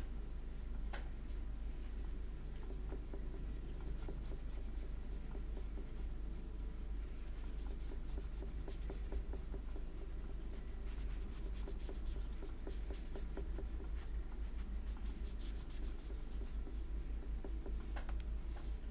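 Paintbrush strokes brushing and scratching on paper as watercolour is laid down, over a steady low hum.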